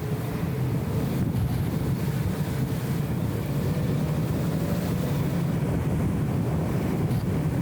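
BMW E34 M5 Touring's straight-six engine and road noise during a steady drive: an even low rumble with no change in pace. The sound is dulled by the camera's anti-wind audio filter.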